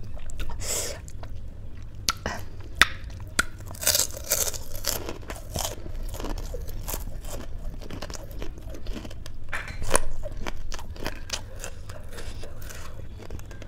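Close-miked chewing and crunching of crisp food, with short sharp crunches and a few louder bites about four seconds in and again near ten seconds.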